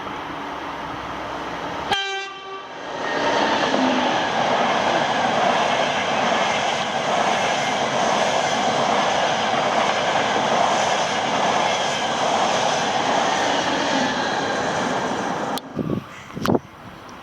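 Frecciarossa high-speed train sounding a short horn blast, then passing at speed with a loud, steady rush of wheel and air noise that cuts off abruptly near the end. A few sharp knocks follow the cut-off.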